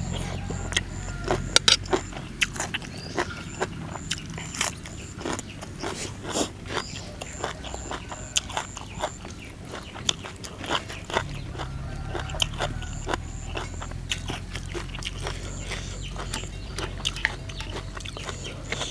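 A person chewing crunchy food close to the microphone: a long irregular string of sharp crunches, crackles and mouth smacks over a low steady hum.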